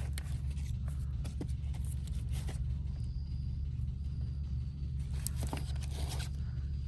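A steady low mechanical hum with a few light clicks and rustles of handling.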